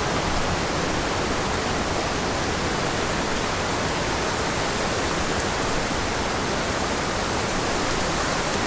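A waterfall pouring into its plunge pool: a steady, even rush of falling water.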